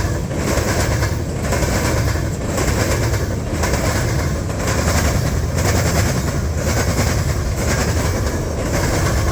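Freight train rolling past close by, a steady heavy rumble with wheel clatter that repeats about once a second as the cars go by.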